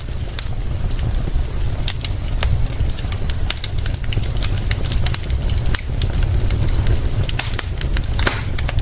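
Fire crackling, with many sharp, irregular pops and snaps, over a steady low rumble.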